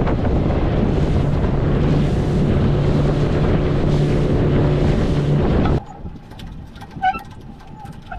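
Boat motor running steadily under way, a constant low hum under heavy wind rush on the microphone. About six seconds in it cuts off abruptly, leaving a quieter background with a few short bird calls.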